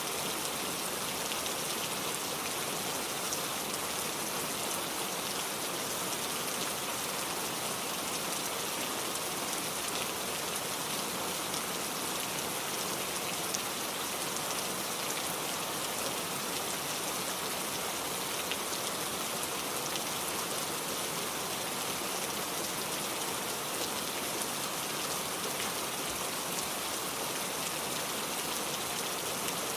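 Steady rainfall: an even hiss of falling rain with faint individual drop ticks scattered through it.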